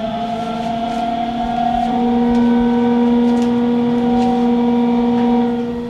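Hanshin local train's electric traction motors and their controller whining as the train pulls away, a chord of several steady pitches that shifts in steps, with a new higher pitch joining about two seconds in and the sound dropping away near the end.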